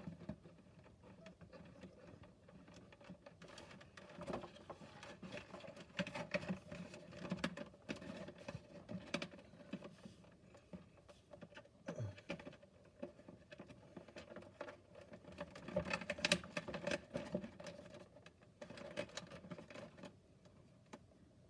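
Pieces of a cardboard playset being handled and fitted together: irregular light rustling, scraping and small clicks, busiest about three-quarters of the way through.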